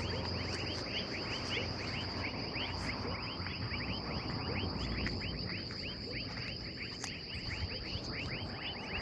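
Outdoor nature sounds: a steady high-pitched insect drone with a dense run of short, falling chirps repeating several times a second over it.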